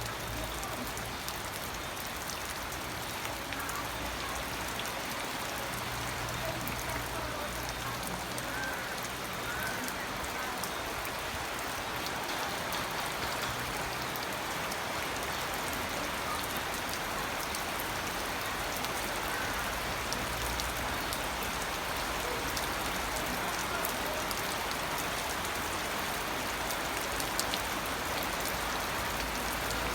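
Steady rain falling on a surface, with many small drop ticks and a low hum that comes and goes.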